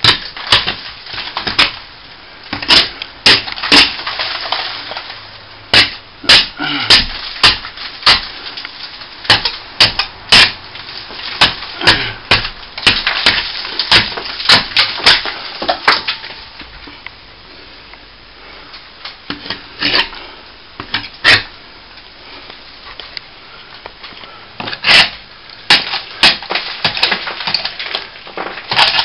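Hand tool scraping and chipping at a plaster wall, raking out a crack and breaking away loose plaster in irregular sharp scrapes and cracks, with a short pause about two-thirds of the way through.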